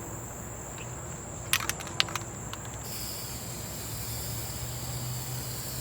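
A few sharp clicks, then about three seconds in an aerosol can of appliance spray paint starts spraying with a steady hiss.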